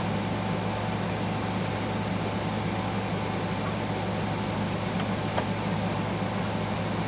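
Steady mechanical hum of a room fan or air conditioner, unchanging throughout, with a couple of faint ticks about five seconds in.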